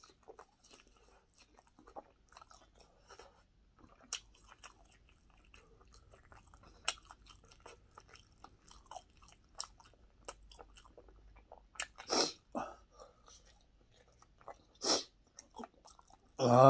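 Close-up chewing of fried pork cutlet, with many small crunches and clicks. Two louder breathy sounds come about twelve and fifteen seconds in, and a short voiced sound from the eater, the loudest moment, comes right at the end.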